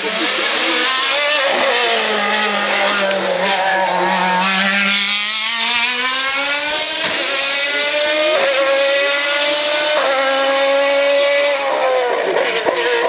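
A hillclimb race car's engine: the pitch sinks as the car slows into the bend, then climbs hard as it accelerates out. There are about three quick upshifts in the second half, each a sudden drop in pitch, and the engine eases off near the end.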